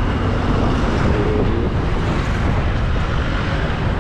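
Motorcycle under way: steady engine and road noise with wind rushing over the camera microphone.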